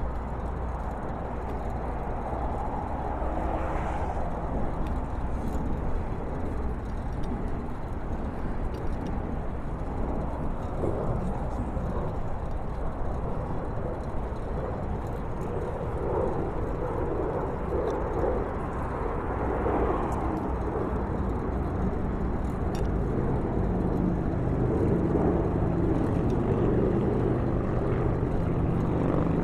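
Wind noise on a phone's microphone over the steady sound of road traffic, with a low engine hum coming in during the last several seconds.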